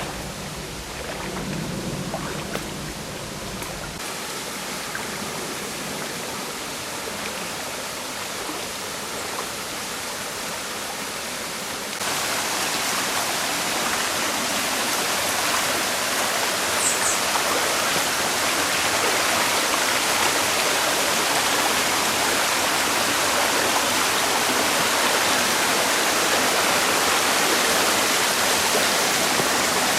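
Waterfall: a steady rush of falling and splashing water that changes slightly about four seconds in and turns louder and brighter about twelve seconds in.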